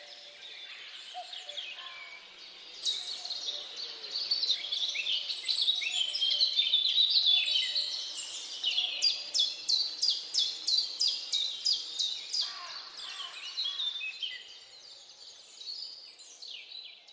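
Small birds chirping and singing, many short high notes overlapping, with a run of evenly repeated notes at about three a second in the middle.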